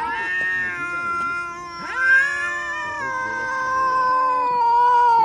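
A cat yowling in long, drawn-out calls that waver in pitch, with a quick upward swoop about two seconds in.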